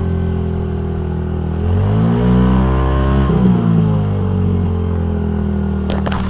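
Small dirt bike engine running, revved up about two seconds in and easing back down to a steady idle a second and a half later.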